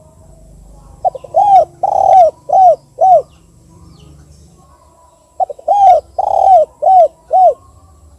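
Spotted dove cooing: two phrases about four seconds apart, each a short stutter followed by four arched coos.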